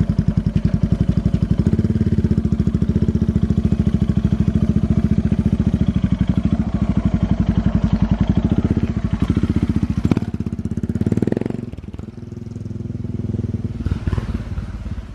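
Suzuki DR650's single-cylinder four-stroke engine running with a steady, even beat, dropping in level briefly about twelve seconds in.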